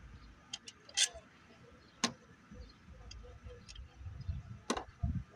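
Scattered sharp clicks and knocks of hand tools and engine parts being handled during an engine teardown, about half a dozen at irregular times, with a couple of low thumps near the end.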